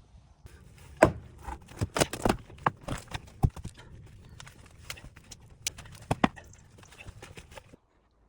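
A string of irregular sharp knocks and clatters, loudest about a second in, coming in quick clusters with pauses, not an even rhythm.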